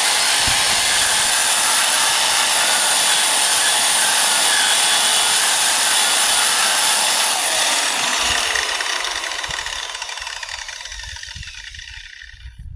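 Handheld electric power tool with a paint-stripping wheel running against a truck's body panel, stripping the paint. About seven seconds in it is let off and spins down with a falling whine.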